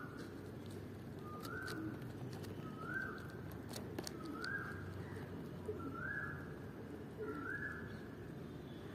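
A bird repeating a short, rising whistled note about every second and a half, five times. Faint sharp clicks of a young palm squirrel nibbling a biscuit sound between the calls.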